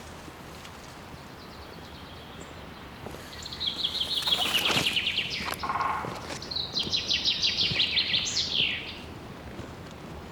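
A songbird sings two rapid trilled phrases of fast repeated high notes, the first about three and a half seconds in and the second about six and a half seconds in, the second ending in a falling sweep.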